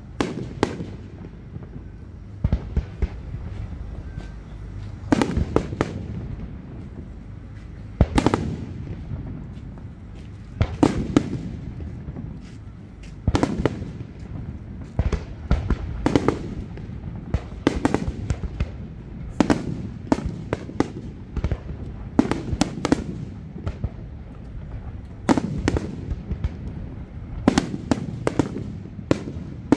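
A fireworks display with shells bursting in sharp bangs every second or two, some in quick clusters, over a continuous low rumble.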